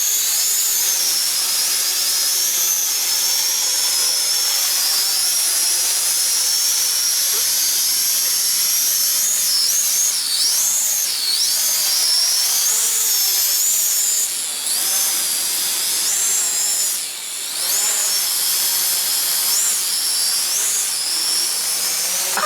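Small quadcopter drone flying close by, its propellers giving a steady high-pitched whine that rises and falls repeatedly in the second half as the motors speed up and slow down.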